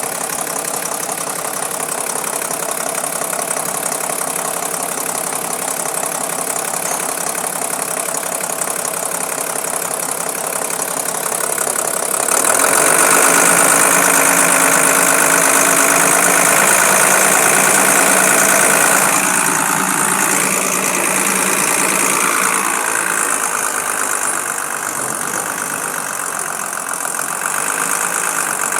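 Mitsubishi engine running steadily, growing louder for several seconds about midway before settling back.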